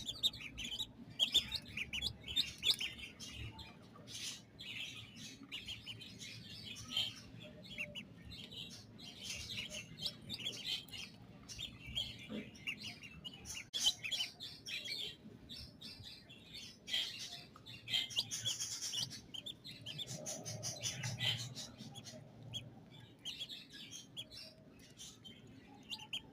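Chicks cheeping: a continuous stream of short, high chirps with brief pauses.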